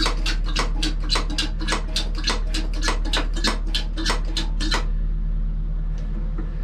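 Hand oil-extraction pump worked in quick, even strokes, about four or five a second, drawing the last of the old oil out of a narrowboat engine's sump. The pumping stops about five seconds in, leaving a steady low hum.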